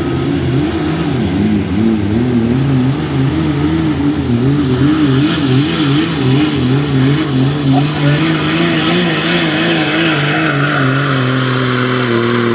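Diesel pickup engine running hard under load, its pitch wavering up and down, over a thin high turbo whistle.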